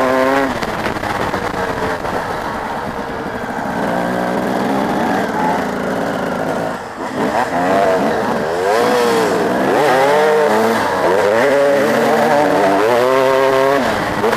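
Several motocross bikes' engines revving up and down as they ride, their pitches rising and falling and overlapping. There is a brief lull about seven seconds in.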